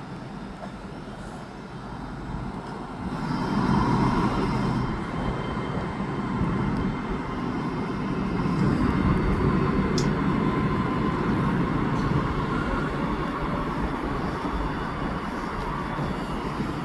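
A train running past at the station: a steady rumbling rush that swells about three seconds in and stays loud, with a faint steady whine over it.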